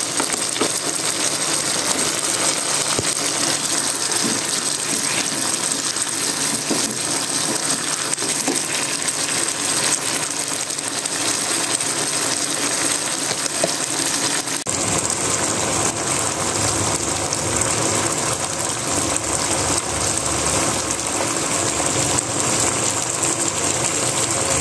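Chicken thigh pieces sizzling steadily in a frying pan as they cook in their own juices and sauce, with occasional light clicks of stirring.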